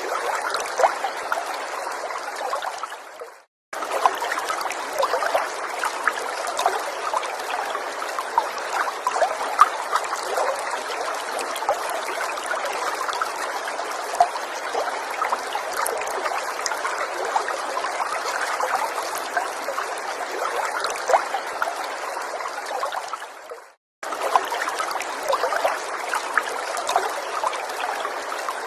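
Small forest stream trickling and bubbling over stones, a steady rush with many small splashes. It fades to silence twice, about three seconds in and again near the end, and each time comes back suddenly.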